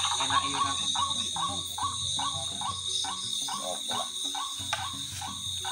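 White-breasted waterhen (ruak-ruak) calls repeated in a steady rhythm, about two to three short notes a second, as used in a bird-call lure. Steady high-pitched insects shrill behind.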